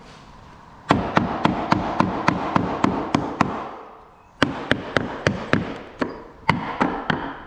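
Quick repeated knocks as a wooden window trim piece is tapped back into place on an old sash window. The knocks come in two runs of about ten strikes each, about four a second, with a short pause in the middle.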